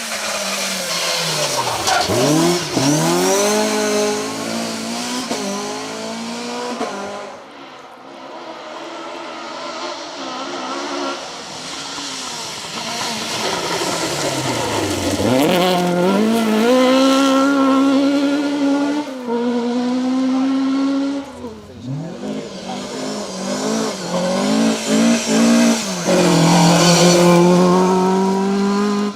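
Ford Escort Mk2 rally cars driven flat out on a special stage, engines revving hard and changing up through the gears. Each car's pitch drops sharply as it passes close by, several times over.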